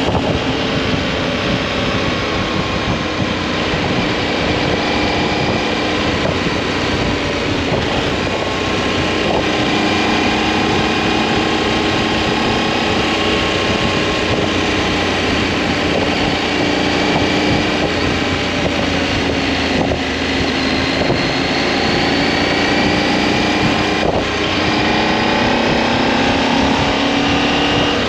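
Motorcycle engine running while riding along the road, its pitch drifting slowly up and down with speed. A steady rush of wind on the microphone runs underneath.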